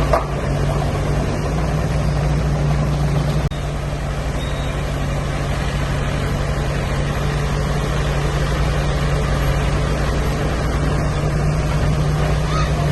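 Diesel engine of heavy earthmoving machinery running steadily with a low, even hum. There is a sharp click and a slight drop in level about three and a half seconds in.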